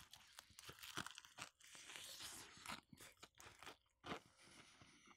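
Quiet chewing of crispy fried chicken, the breading crunching in many irregular small bites.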